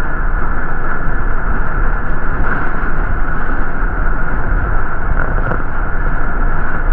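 Steady rumble of a city transit bus in motion, heard from inside: engine and road noise with no break or change.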